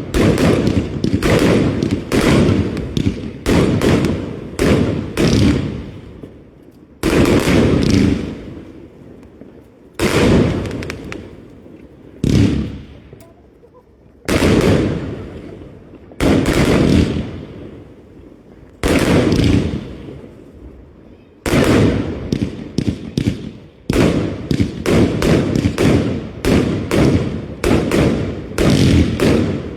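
Fireworks exploding: a quick string of bangs, then single heavier bangs every two or three seconds, each fading away over a second or two, and another rapid run of bangs in the last several seconds.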